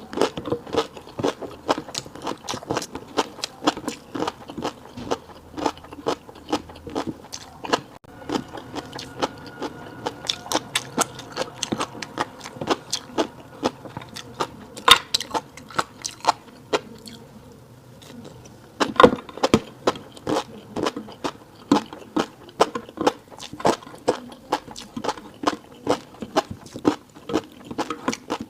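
Close-miked mouth sounds of chewing a fish roe rice bowl: rapid, crisp clicks, with a short lull about two-thirds of the way through.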